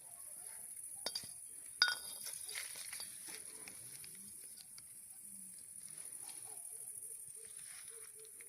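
Campfire crackling with scattered pops, the loudest a sharp ringing clink about two seconds in.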